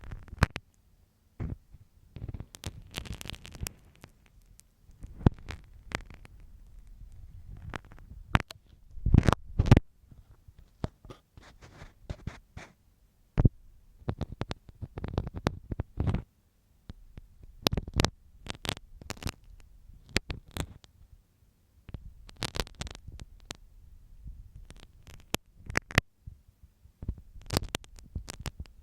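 Ear-cleaning ASMR with a sewing marking pin scratching and tapping right against the microphone. It makes irregular sharp clicks and short scratches over low rumbling thuds.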